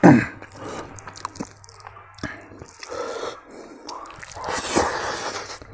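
A person chewing a mouthful of food, with wet smacking and small clicks, and a loud noisy breath through the mouth and nose about four and a half seconds in.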